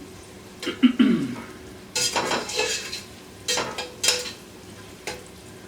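A utensil stirring and scraping in a cooking pot, in four or five short strokes, with a brief falling squeal about a second in.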